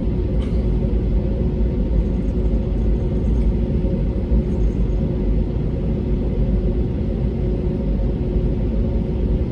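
Steady cabin rumble of an Airbus A320neo with Pratt & Whitney PW1100G geared turbofans, heard from a window seat, with two steady engine hums over it.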